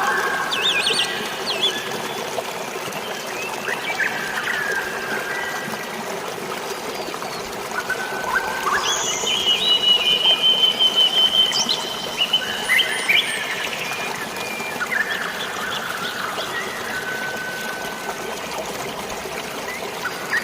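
Steady rush of flowing water with birds chirping and calling over it. A long, fast trill stands out about halfway through.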